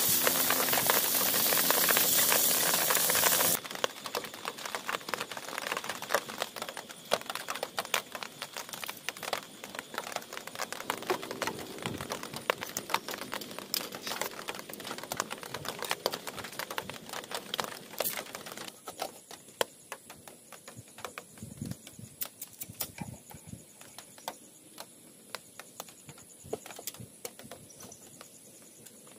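Sausages and onion sizzling loudly in a pan on a camp stove, cutting off suddenly after about three and a half seconds. Then many light clicks and taps of chopsticks and enamel tableware during eating. In the last third come quieter clicks of a metal hurricane lantern and a lighter being handled, over a faint steady high whine.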